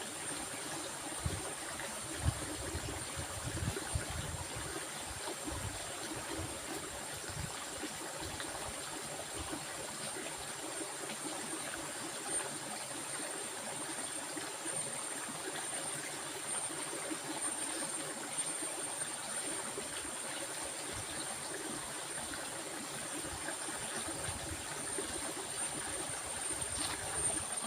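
Water running in a stream, a steady rushing wash with a thin, steady high tone above it and a few low thuds in the first few seconds.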